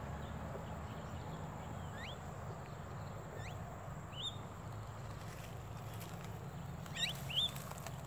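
A bird giving short, faint, rising whistled calls, about five of them spaced a second or more apart, over a steady low background hum.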